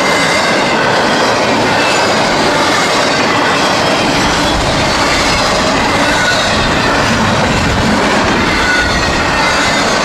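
Freight train of mostly empty intermodal well cars rolling past close by: a steady rumble of steel wheels on rail, with a few brief, faint wheel squeals.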